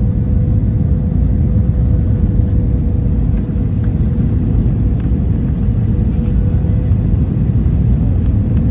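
Airbus A321 cabin noise heard from an economy window seat: a steady, loud low rumble of the engines and airflow, with a thin steady hum running through it.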